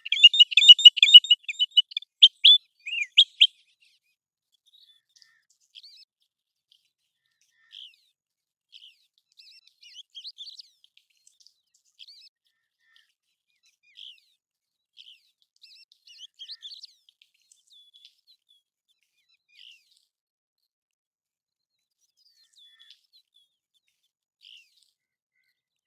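American golden plover calling: a loud, rapid run of short, high whistled notes for the first few seconds, then faint single calls scattered a second or two apart.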